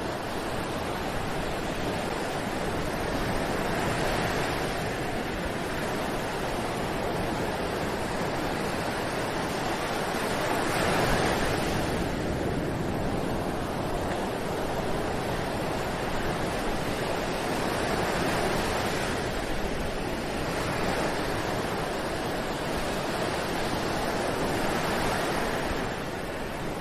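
Ocean surf breaking on a beach: a continuous wash of waves that swells roughly every six to seven seconds, the loudest swell near the middle.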